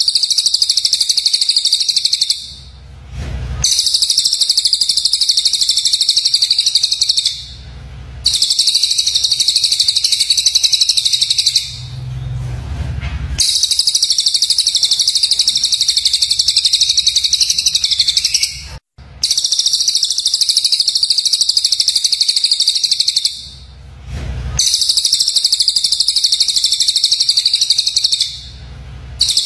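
Songbird giving harsh, rapid-fire high-pitched chirping, the 'tembakan' phrases used as training song for magpie-robins. It comes in bursts of about four to five seconds separated by short pauses, six pauses in all.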